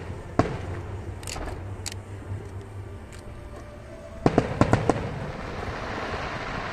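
Aerial fireworks bursting overhead. There is a single sharp bang just after the start and a few lighter snaps. A little past four seconds comes a rapid cluster of about five bangs, which trails into a spreading crackle.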